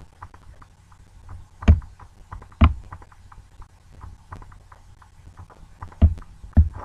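Light clicks and taps close to a laptop microphone, with four louder knocks: handling and clicking on the laptop that is recording.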